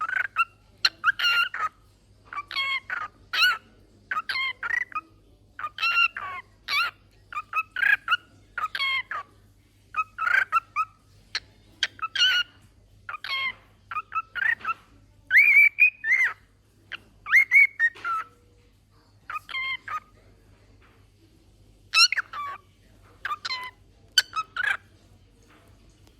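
Cockatiel singing: a long run of short whistled notes and chirps in repeated phrases, with a brief pause about three-quarters of the way through.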